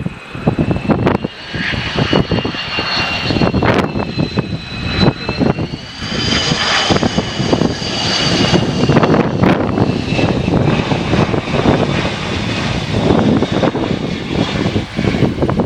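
A Boeing 767's jet engines whining over a heavy rumble, with wind buffeting the microphone. The whine rises in pitch about six seconds in, then settles a little lower.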